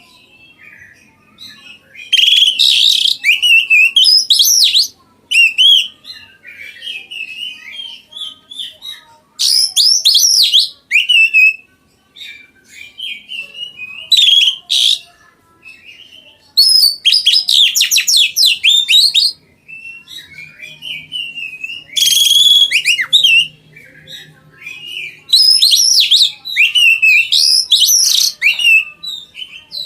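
Oriental magpie-robin (kacer) in full song: loud, rapid, varied phrases of one to three seconds, repeated every few seconds, with softer twittering between them.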